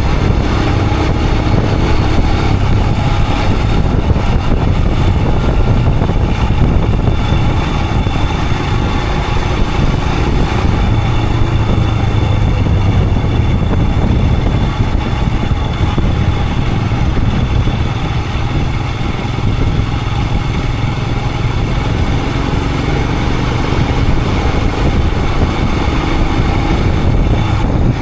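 Royal Enfield Himalayan 411's single-cylinder engine running steadily under way, with wind and road noise over it.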